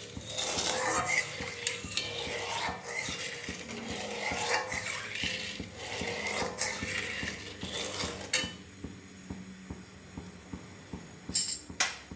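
A metal spoon stirring and scraping in a pot of boiling sugar syrup, with steady clattering for about eight seconds. After that it goes quieter, and a few sharp clinks come near the end.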